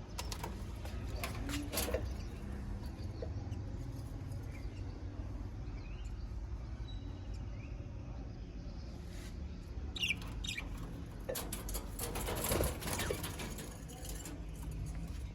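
A pet parrot moving about, with bouts of rustling, scratching and wing flutter and a few short high chirps, over a steady low hum.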